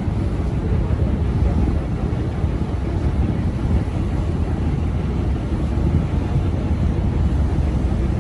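Steady low rumble of wind buffeting the microphone on a boat under way, with the boat's running noise mixed in.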